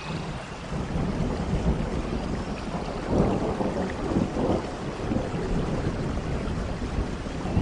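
Rain falling with a low rumble of thunder that comes in at the start and swells about three to four seconds in.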